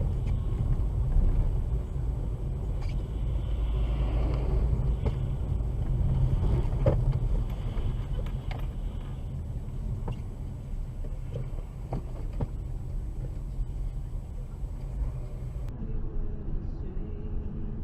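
Car on the move: a steady low rumble of engine and road noise, with a few faint knocks.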